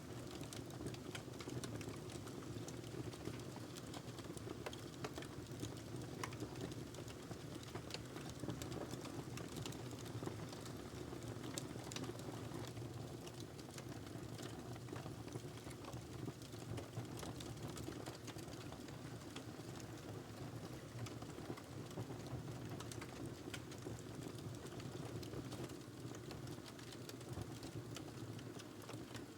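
Fireplace fire crackling: frequent small, sharp pops scattered irregularly over a steady low rush of burning.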